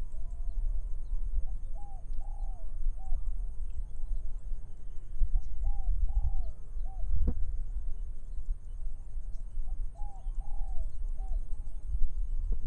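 A dove cooing in short phrases of several notes, each phrase repeating about every four seconds, over a steady low rumble of wind. A single sharp click sounds about seven seconds in.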